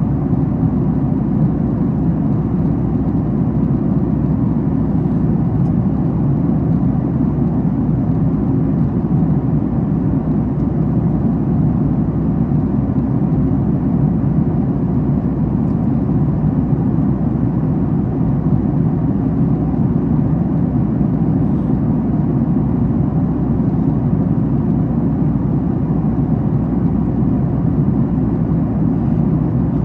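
Steady cabin noise of a Boeing 737 MAX 8 at cruise, heard from inside the economy cabin: airflow and CFM LEAP-1B engine sound as an even, low rumble.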